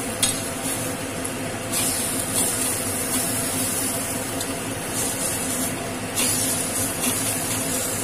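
Elephant foot yam fritters sizzling in a little hot oil on a flat tawa, a steady hiss that swells several times as the spatula turns them. There is one sharp tap just after the start.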